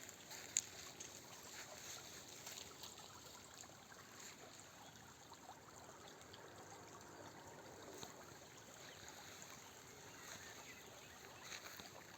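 Faint water trickling and lapping at the shore, with a few small clicks, the sharpest about half a second in.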